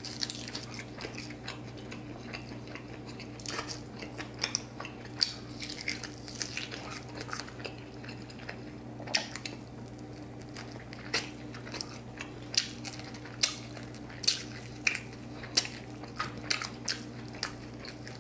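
Close-up chewing and biting of sauced, cornstarch-fried pork spare ribs, with wet mouth sounds and short crunchy clicks that come about one to two a second in the second half. A steady low hum runs underneath.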